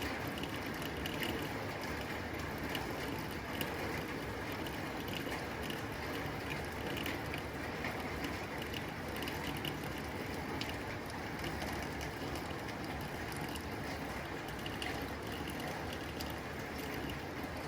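Rain falling on a tin roof: a steady rushing hiss dotted with many small, sharp drop ticks on the metal.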